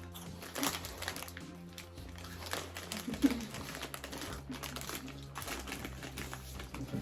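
Background music under the crinkling and crunching of a bag of cheese puffs as they are eaten, in many short crackly clicks.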